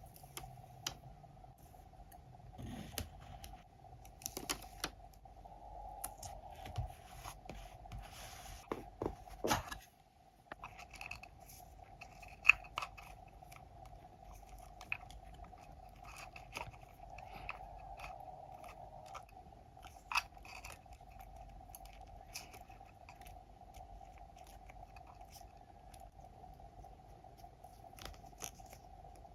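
Close-up scrapbooking sounds: paper being handled, rustling and crinkling, with many scattered sharp clicks and taps, over a faint steady hum. The loudest click comes about halfway through.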